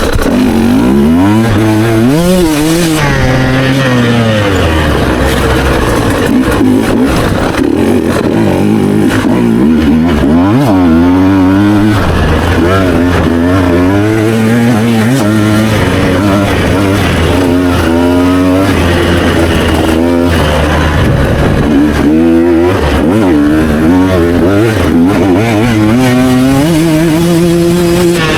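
Two-stroke enduro motorcycle being ridden, its engine pitch climbing and dropping again and again as the throttle is opened and backed off.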